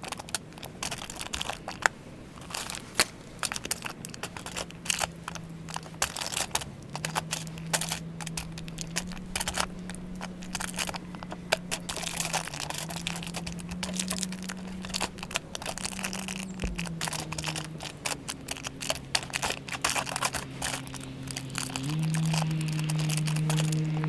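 Plastic wrapping crinkling and tearing in a steady run of crisp rustles and clicks, with a soft music bed of held notes that change pitch in steps from about four seconds in.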